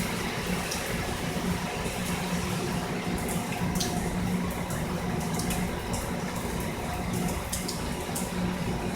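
Heavy hurricane rain pouring steadily, with frequent sharp drops and splashes, over a steady low hum.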